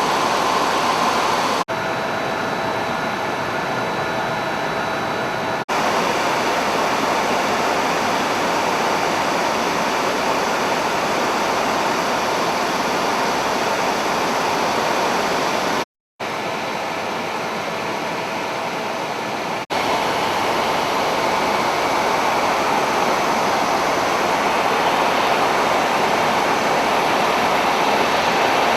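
Helicopter in flight heard from inside the cabin: a loud, steady rush of turbine and rotor noise, with a few abrupt cuts where the level steps slightly.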